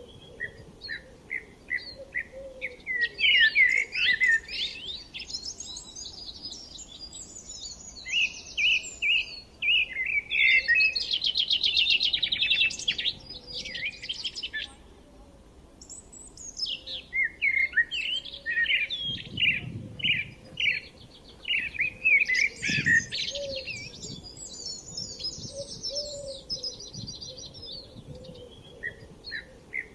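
Several songbirds singing and chirping, their songs overlapping in bursts with short lulls between them. About midway there is a fast trill of rapidly repeated notes.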